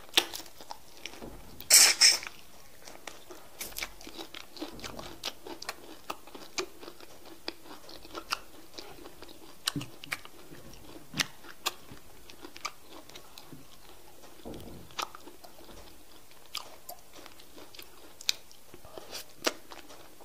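Close-miked eating of semolina fufu and okra soup by hand: chewing with many short, sharp mouth clicks, and a louder burst about two seconds in.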